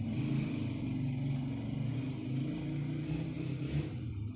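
Domestic cat purring steadily, a low rumble that shifts slightly in pitch with each breath in and out.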